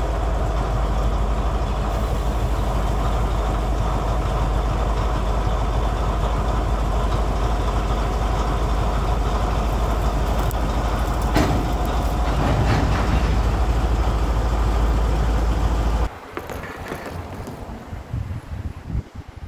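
Diesel engine of a former Emu Bay Railway 11 class locomotive running steadily with a heavy low rumble. About sixteen seconds in it gives way abruptly to much quieter wind and outdoor background.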